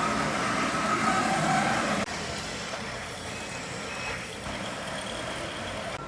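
Autonomous robotic floor scrubber running, a steady machine hum and scrubbing hiss with a few short electronic beeps. The noise drops a little about two seconds in.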